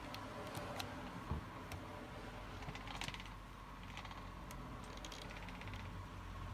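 Scattered light clicks and ticks of hands working adhesive into a cracked plastic box, over a low steady hum.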